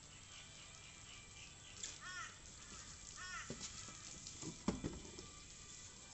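A bird calls outdoors in a few quick, arched chirping notes. Then come some short handling noises and a single thump, the loudest sound, a little after halfway, as a cardboard box and a plastic bag are handled.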